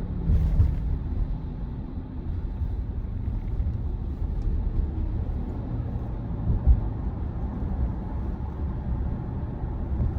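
Steady road and tyre rumble of a Tesla Model Y on the move, heard inside the cabin, with a brief louder rush about half a second in.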